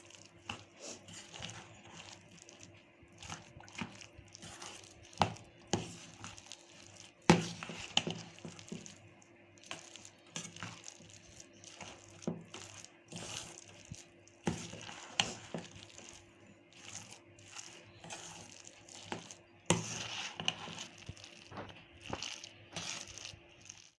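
Thick mashed-vegetable cutlet mixture being mixed in a bowl: irregular soft squishing and scraping, with occasional sharper knocks against the bowl.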